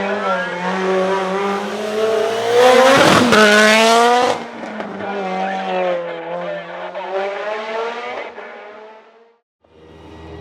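Mitsubishi Lancer Evolution IX race car's turbocharged 2.3-litre 4G63 stroker four-cylinder revving hard and shifting up through the gears, its pitch climbing and dropping again and again. It is loudest as the car passes close about three seconds in. Near the end the sound cuts out briefly and the engine comes back quieter.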